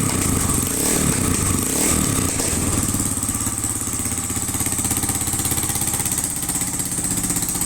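Yamaha Serow 250's air-cooled single-cylinder engine running after a start, wavering a little in pitch over the first couple of seconds, then idling steadily.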